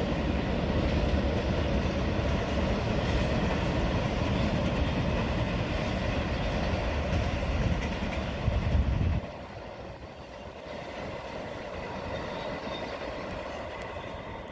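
Freight train cars rolling past, a loud clattering rumble of wheels on the rails that cuts off suddenly about nine seconds in as the end of the short train goes by. A fainter steady rumble follows as it moves away.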